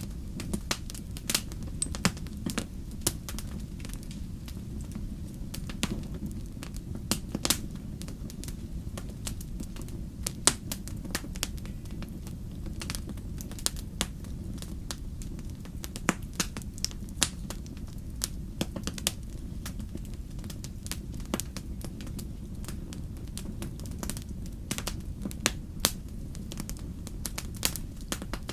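Wood campfire crackling: irregular sharp pops and snaps of burning wood over a steady low rumble.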